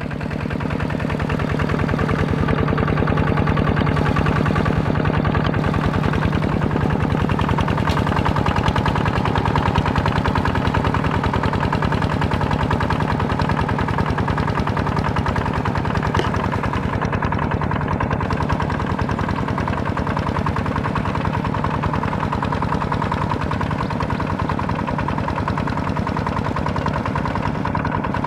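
Tractor engine running steadily with a rapid, even chugging beat, growing louder over the first couple of seconds and then holding steady.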